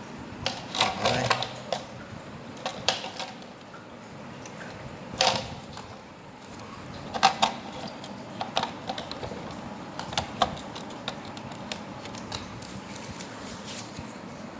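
Irregular clicks and knocks of small hard parts being handled: a homemade model-truck fifth-wheel hitch and trailer kingpin being fitted together and worked by hand, a dozen or so sharp taps spread out with pauses between them.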